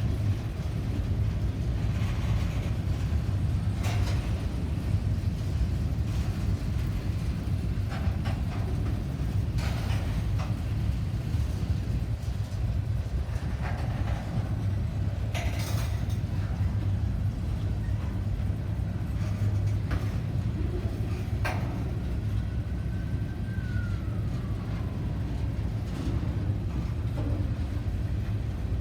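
A train rumbling steadily as it rolls past, with occasional sharp metallic clanks.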